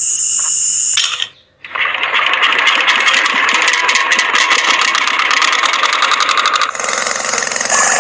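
A small motor starts about a second and a half in and runs with a fast, dense rattle, as from a miniature model machine's gears; its sound changes near the end.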